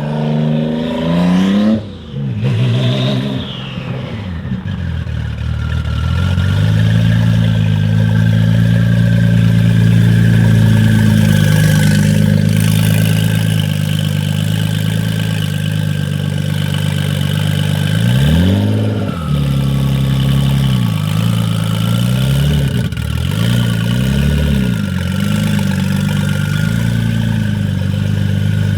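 Audi S4 B5's 3.0-litre biturbo V6 revving up hard, falling away sharply about two seconds in and revving briefly again, then running at a steady pitch for about twelve seconds. Near the end it gives one rev blip that rises and falls, followed by a few smaller blips.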